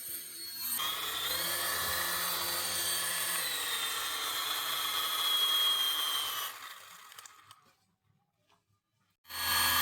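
Small electric motor whirring steadily. It is switched off about six and a half seconds in and winds down to silence, then starts again abruptly just before the end.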